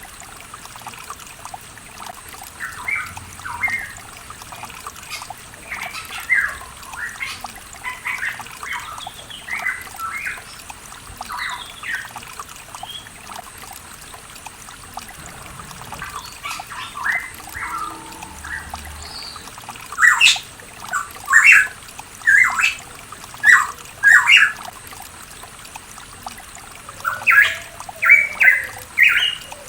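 Pitohui calling: a run of short, sharp whistled notes, scattered and softer at first, then louder and in quick bunches from about twenty seconds in. A faint trickle of water runs underneath.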